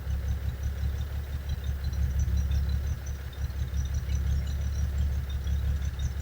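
1975 Kenworth LW924's diesel engine running steadily with a deep rumble, building pressure in the truck's air system.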